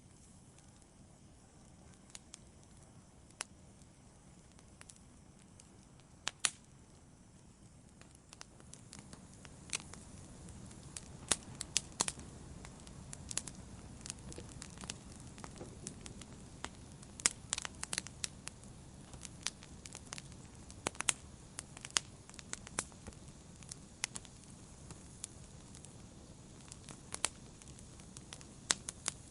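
Wood fire crackling and popping, with sharp snaps over a low steady rumble of the flames. The pops are sparse at first and come thicker and louder from about a third of the way in.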